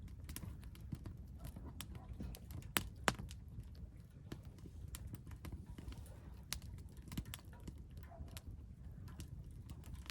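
Wood fire burning in a Solo Stove fire pit, crackling with irregular sharp pops over a steady low rumble; two louder pops come close together about three seconds in.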